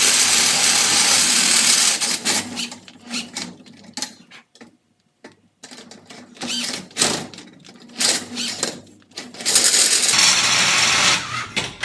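Power drill running a 1-3/4 inch hole saw, cutting through the metal end of a Harley Sportster exhaust baffle, nearly through: a loud grinding cut for about two seconds, then short stop-start bursts, then another long cut near the end.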